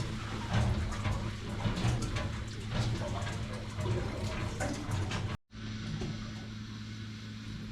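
Steady low hum in a small enclosed room, with scattered light clicks and knocks and faint background voices. The sound drops out completely for an instant about five and a half seconds in, then the hum carries on alone.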